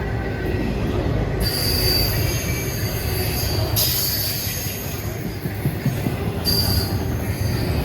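CSX intermodal freight train rolling past: a steady rumble of the cars on the rails, with high-pitched wheel squeal breaking in three times.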